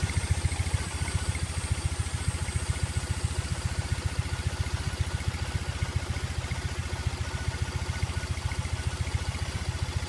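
2013 Triumph motorcycle engine idling steadily with an even pulsing beat, freshly filled with new oil and running while it is checked for leaks.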